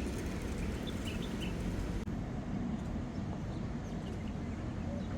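Steady low outdoor rumble, with a few faint short chirps about a second in.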